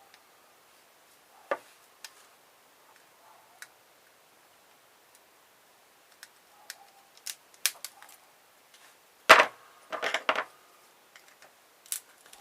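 Scattered clicks and knocks of small metal and plastic parts of a car stereo being handled and pried apart by hand. The clicks come more often after about six seconds, with one sharp clack about nine seconds in and a short rattle just after.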